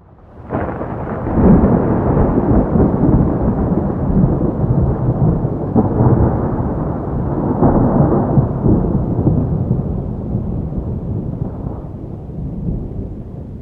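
Thunder: a sudden clap about half a second in that rolls on as a long, loud rumble, with a few sharper cracks in the middle, slowly dying away toward the end.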